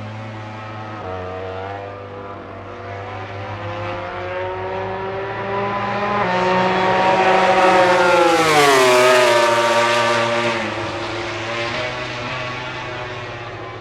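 MotoGP prototype racing motorcycle at full throttle passing by. The engine note climbs in steps as the bike approaches, is loudest about nine seconds in, then drops sharply in pitch as it goes past and fades away.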